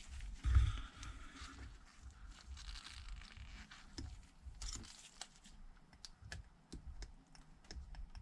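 Small clicks, taps and plastic crinkling from a phone and its replacement screen being handled, with a soft thump about half a second in.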